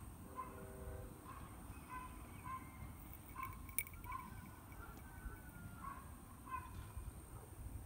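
Faint bird calls in the background: short, separate chirps repeated irregularly, over a low rumble.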